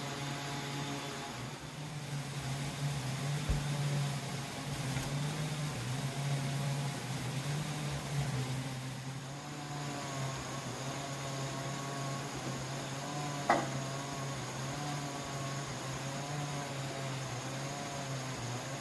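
Steady low hum of a running motor or machine, with faint wavering tones above it in the second half and one sharp tick near the end.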